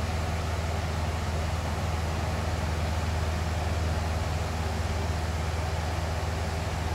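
Box fan running steadily: a deep, even rush of moving air, heaviest in the low end.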